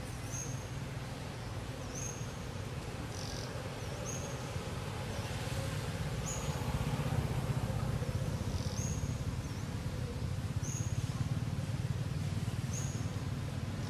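A bird calling repeatedly, a short high chirp every one to two seconds, over a steady low rumble.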